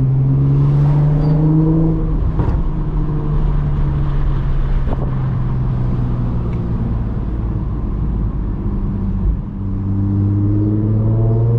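Audi S4 B8.5's supercharged 3.0 V6 exhaust, with AWE resonated downpipes, test pipes and AWE Touring catback, running in a steady deep drone while cruising. The pitch eases off about two seconds in, dips briefly late on, then climbs as the car pulls again.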